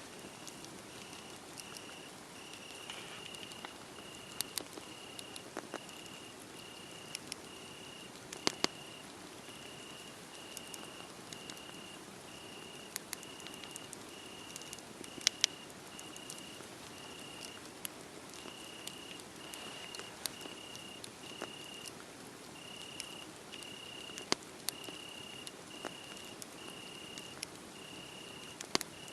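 A cricket chirping in a steady, even rhythm, about one and a half chirps a second, over the soft hiss of a wood fire. The fire gives off scattered crackles and pops, a few of them sharp and loud.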